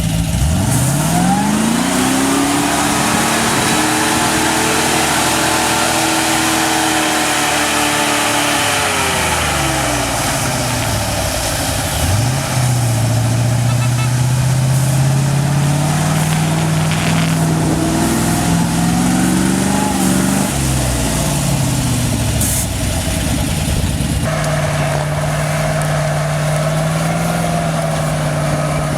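GAZ-66 truck's petrol V8 revved in long pulls: the pitch climbs and holds for several seconds, drops back about nine and twenty seconds in, then climbs again each time.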